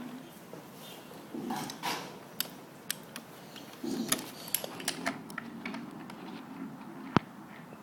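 Toy train pieces being handled, giving irregular small clicks and clacks, with one sharper knock near the end.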